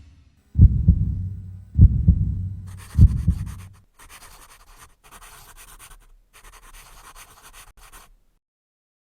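Three deep booming hits about a second apart, each dying away, like a heartbeat sound effect, followed by several seconds of faint crackling static that stops near the end.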